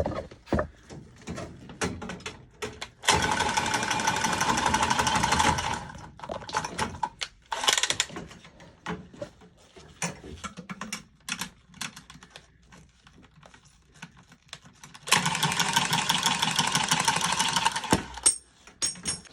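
A small power tool's motor runs in two bursts of about three seconds each, with a fast, even rattle, and handling clicks and knocks fall between them.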